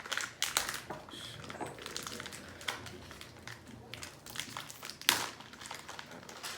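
Snack packaging of vanilla-filled Ritz crackers rustling and crinkling as it is handled, with scattered small clicks and a louder crackle about five seconds in.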